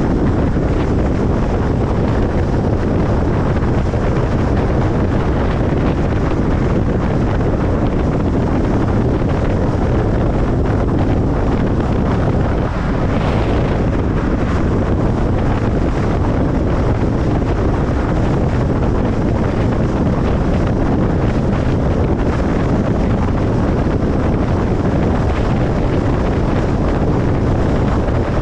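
Steady road noise of a car driving at speed: a constant low rumble of tyres on the road with wind rushing over it.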